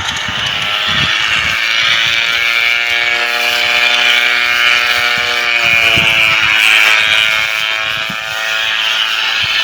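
Engine drone of a small propeller crop-duster plane, one steady note that rises a little early on and drops in pitch in the last few seconds, as in a pass overhead.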